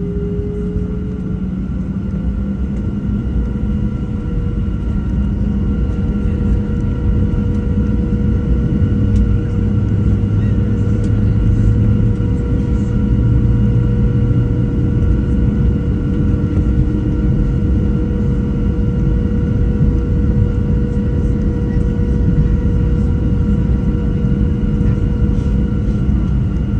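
Cabin noise inside a Boeing 737-700 with its CFM56-7B jet engines running: a steady rumble with several steady whining tones over it, growing slightly louder over the stretch.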